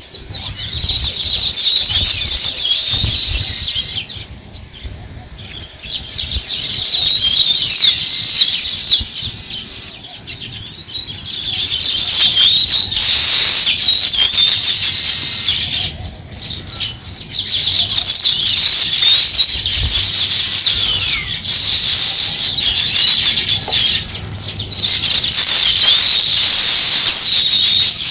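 House sparrows chirping loudly in a dense, rapid chatter of short rising and falling notes. The chatter comes in stretches broken by brief pauses, then runs on unbroken through the second half.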